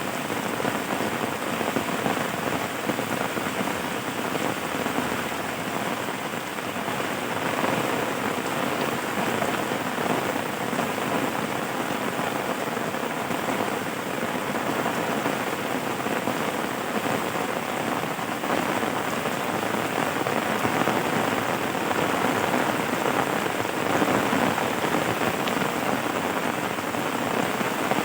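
Steady rain falling: an even, unbroken hiss of many drops, with no thunder.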